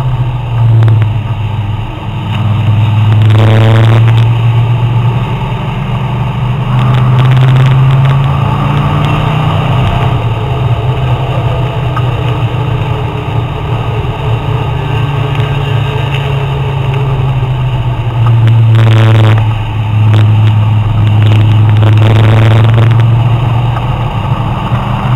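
Sports car engine heard from inside the cabin, accelerating hard and backing off for corners, its revs repeatedly rising and falling through gear changes, with several loud surges under full throttle.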